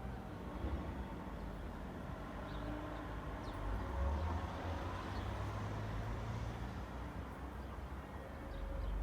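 Suburban street traffic: a steady hum of cars, with one car passing a little under halfway through. A few brief bird chirps sound over it.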